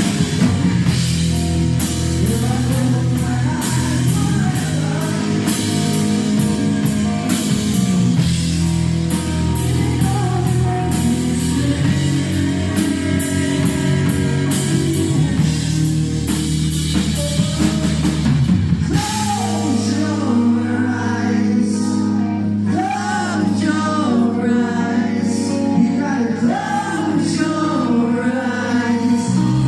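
Rock song with a sung vocal over drums and held chords. About two-thirds of the way in the low bass drops away and the singing comes forward.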